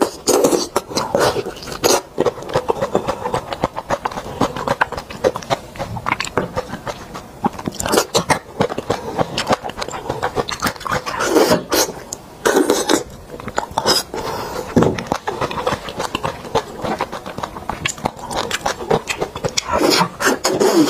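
Close-miked mouth sounds of a person eating braised beef marrow bone: wet chewing, lip smacks and clicks coming irregularly throughout. Near the end the mouth goes to the open end of the bone to suck out the marrow.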